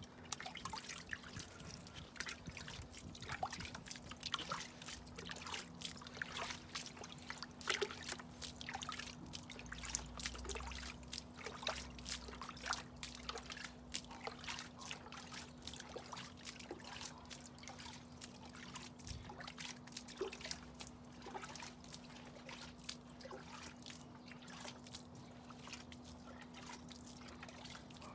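Water poured onto garden soil, trickling and spattering in a dense, irregular run of small drips that thins out near the end.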